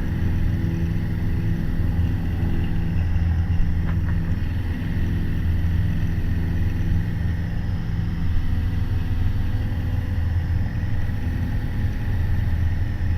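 Piper PA-28 Warrior's four-cylinder Lycoming engine and propeller droning steadily in the cockpit in flight, holding an even power setting at 70 knots on the crosswind leg of the circuit.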